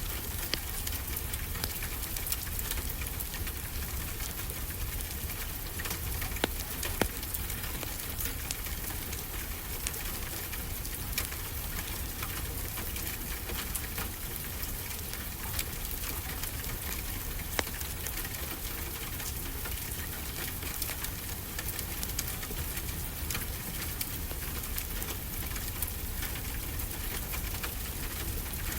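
Steady rain falling, with a wood fire crackling in scattered sharp pops throughout, over a low rumble.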